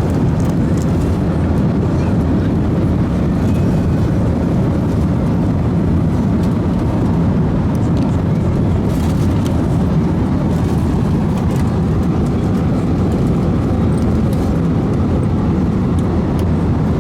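Airbus A321-231 in flight, heard from inside the passenger cabin: its IAE V2500 engines and the air rushing past make a steady low rumble that holds even, with no rise or fall.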